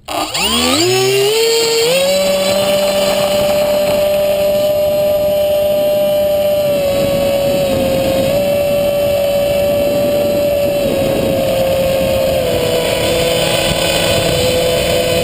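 FPV drone's electric motors spinning up with a rising whine over about two seconds, then holding a steady high whine that steps slightly up and down in pitch with the throttle.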